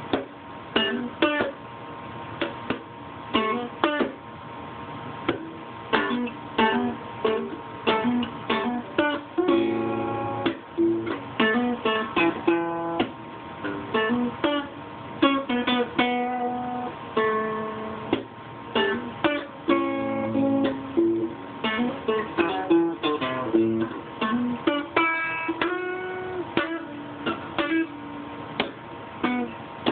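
Guitar played solo, picking a melody of single notes mixed with chords, with no singing.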